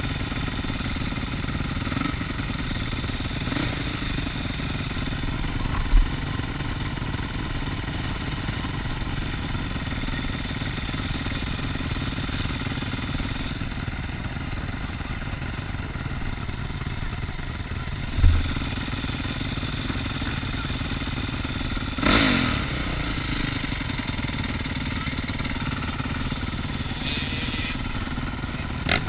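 Motocross motorcycle engine running steadily, with a couple of brief low thumps about six and eighteen seconds in and a short noisy burst a little after twenty seconds.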